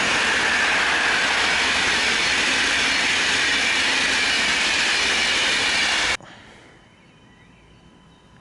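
A train passing through the station: a loud, steady rush of wheel and rail noise with a faint squeal of the wheels. It cuts off abruptly about six seconds in.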